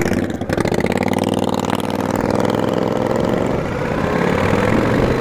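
V-twin cruiser motorcycle engine running under way, its pitch easing slightly midway and rising again near the end, with wind and road noise.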